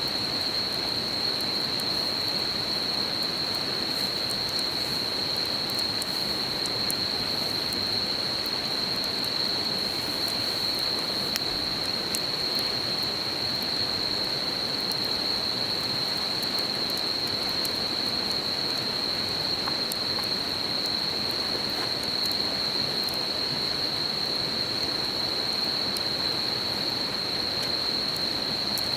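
A river's steady babbling, with a continuous high-pitched insect chorus over it and a few faint crackles from a campfire.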